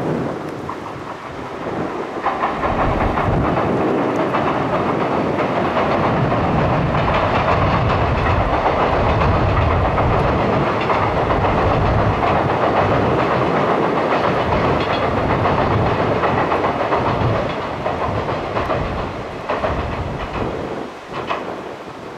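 Container freight train hauled by an EF64 electric locomotive crossing a girder railway bridge: a loud, steady rumble of wheels on rail with a clickety-clack over the rail joints, building about two seconds in and fading away after about seventeen seconds.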